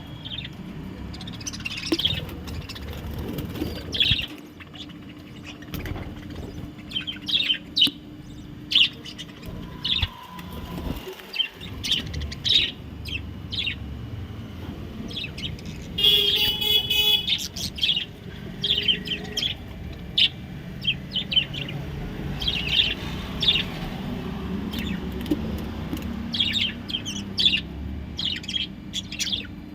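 Pet budgerigars chirping and warbling in quick, short calls throughout, with a louder, harsher call about 16 seconds in.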